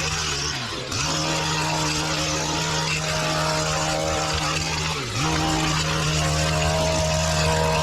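Small petrol engine of lawn-care equipment running steadily at high speed. Its pitch dips briefly about a second in and again about five seconds in, then picks back up.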